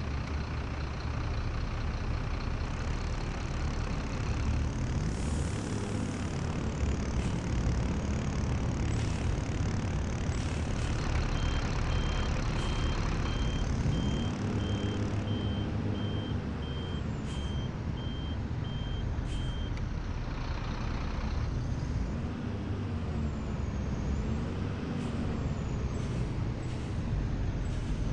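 A Scania city bus with an Ugarte Proton body running, its engine note rising and falling several times as it pulls away and slows. Through the middle there is a run of evenly spaced beeps for about eight seconds, with a few short, sharp hisses of air.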